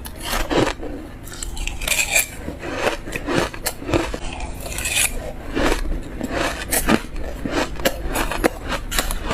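Shaved ice eaten by the spoonful: a run of crisp, irregular crunches and scrapes, one every half second to a second.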